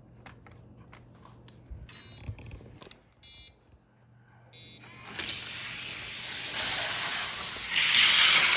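A few clicks and short electronic beeps, then die-cast cars released down the race track, their rolling rattle building from about halfway and loudest near the end.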